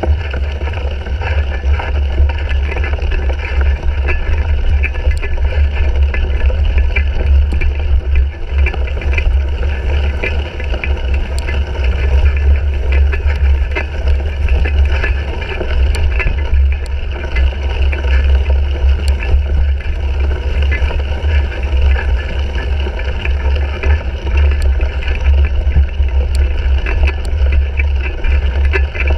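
Steady loud low rumble of wind and ride vibration on a bike-mounted GoPro Hero 3 as a cyclocross bike is raced over rough ground, with a few faint clicks of rattling.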